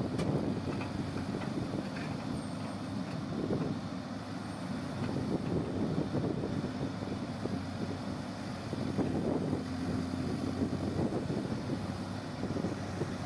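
Diesel engine of an earthmoving machine running steadily at a constant pace.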